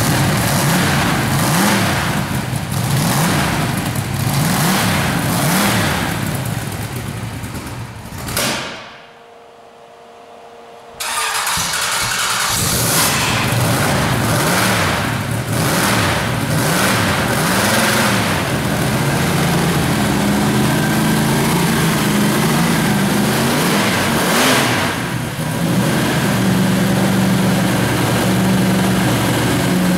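Freshly built aluminum-block Chevrolet 409 V8 running on its first start-up, revved up and down repeatedly by the throttle. About 8 seconds in it stops and goes quiet for a couple of seconds, then it is running again and settles to a steadier note in the second half.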